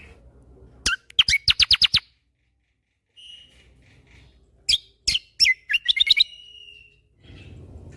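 Kecial kombo songbird singing in loud rapid bursts: a quick string of about seven sharp, sweeping whistled notes about a second in, a pause, faint softer notes, then another burst of sharp notes ending in a short rising trill about six seconds in. A faint low hum rises near the end.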